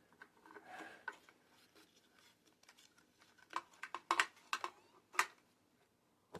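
Faint scraping, then a quick run of sharp clicks about three and a half to five seconds in: a small metal pick working at the chainsaw's fuel line and gas tank.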